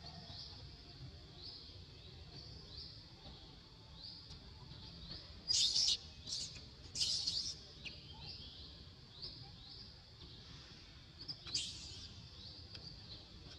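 Bird chirping over and over: short, high, rising chirps about two a second, with a few louder, harsh bursts in the middle and one more near the end.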